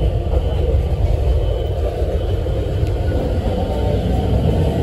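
Steady low rumble of a narrow-gauge (762 mm) commuter train running along the track, heard from inside the passenger car.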